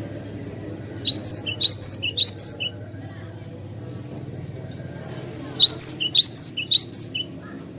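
Cinereous tit (gelatik batu) singing two quick phrases of about six clear, high, down-slurred notes, one about a second in and one near the end, over a steady low hum.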